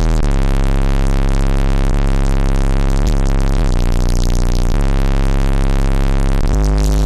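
Bass-heavy electronic music played very loud through a truck's car audio system: two Sundown Audio ZV4 12-inch subwoofers with SPL recones, driven by an Ampere Audio AA-3800.1 amplifier. Deep sustained bass notes shift in pitch every second or two at a constant maxed-out level.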